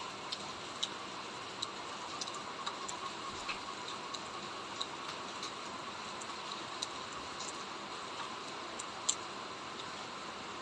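Steady rain: a soft, even hiss with individual drops ticking irregularly on nearby surfaces.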